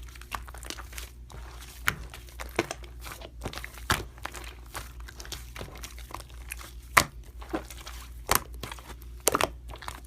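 Slime being squished and poked by hand, making irregular crackling clicks and pops.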